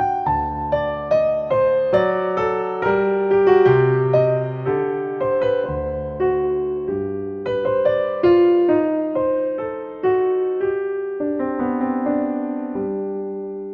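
Slow, gentle solo piano music: a melody of struck notes that ring and fade over held low bass notes.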